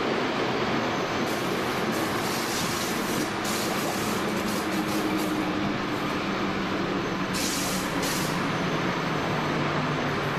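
Flåm Railway train running steadily on the rails, heard from the driver's cab in a tunnel: a continuous rumble with faint steady low tones. Spells of high hiss come in about a second in and again around eight seconds.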